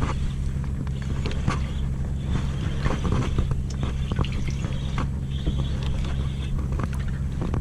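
A boat engine running at a steady low hum, with scattered small clicks and knocks over it.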